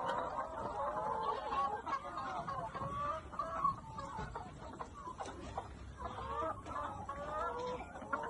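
A flock of chickens clucking, many birds' calls overlapping continuously.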